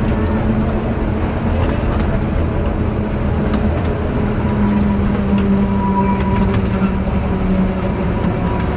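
Akasawa Forest Railway's narrow-gauge train running, heard from aboard: steady engine and wheel noise with a held hum that drops slightly in pitch about halfway through.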